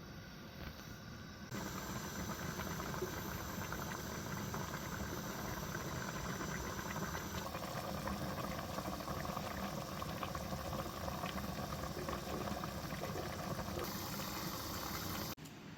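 A pot of food boiling hard, with steady bubbling. It starts abruptly about a second and a half in and cuts off just before the end.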